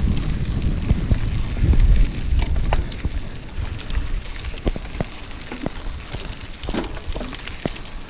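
Wind buffeting the microphone of a moving mountain bike, heaviest in the first two seconds, with scattered crackles and clicks of the bike rolling over rough, gravelly ground.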